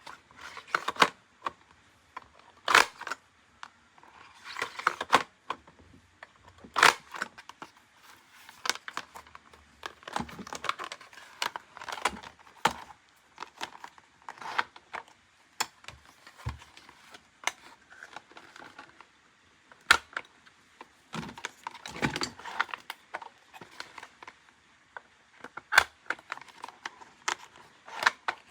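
Toy packaging being handled and opened: plastic and paper crinkling and tearing in irregular bursts, with scattered sharp clicks and taps.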